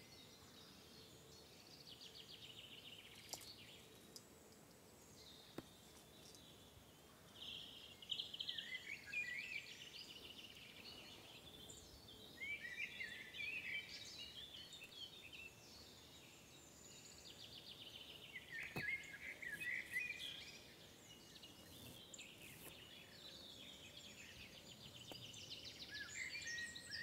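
Faint songbirds singing and calling: repeated trills and short chirps that come and go, busiest about eight seconds in and again near the end.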